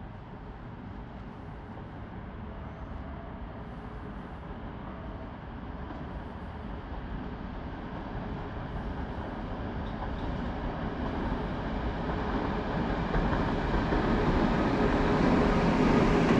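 Train approaching, its rumble growing steadily louder.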